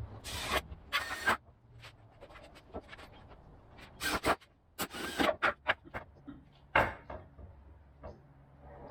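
Cordless drill driving wood screws into 2x4 lumber in several short bursts, the screws grinding into the wood.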